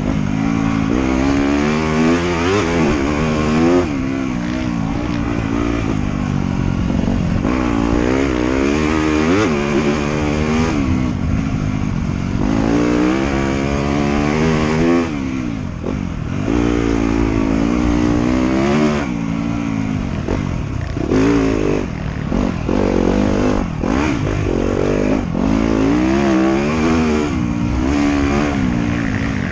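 Off-road motorcycle engine being ridden hard on a trail, its pitch climbing and dropping again and again every second or two as the rider opens and closes the throttle.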